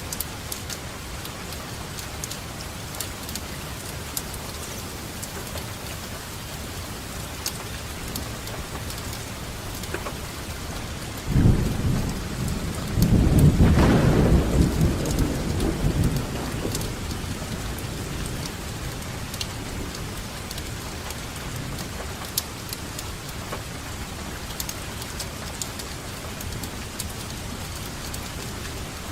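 Steady rainfall with scattered individual drip ticks. About eleven seconds in, a roll of thunder breaks in suddenly and rumbles low for around five seconds, loudest a couple of seconds after it starts, then fades back into the rain.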